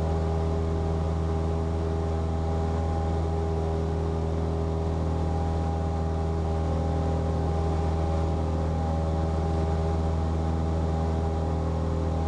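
Cessna 172P's four-cylinder Lycoming engine and propeller droning steadily at high power during the climb-out after takeoff, heard inside the cockpit as an even, unchanging hum.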